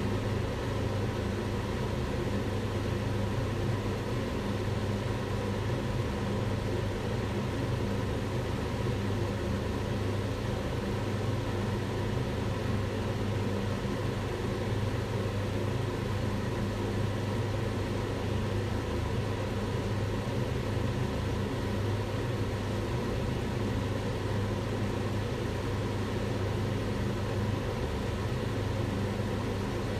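Kitchen range hood extractor fan running steadily: an even rush of air over a low hum, with no change in speed.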